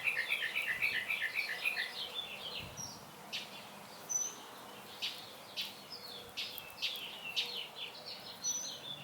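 Songbirds singing: a quick run of repeated chirps in the first two seconds or so, then scattered short chirps and calls.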